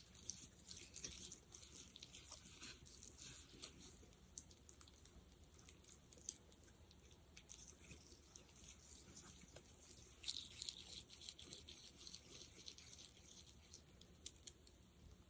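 Faint, sticky, wet crackling and clicking from a sticky gel being worked close to the microphone, with a louder cluster of crackles about ten seconds in.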